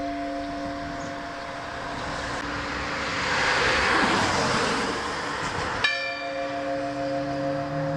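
Swinging church bell ringing, its tones dying away as the noise of a passing vehicle swells up and fades over them. About six seconds in, that noise stops abruptly and a fresh bell strike rings out clearly.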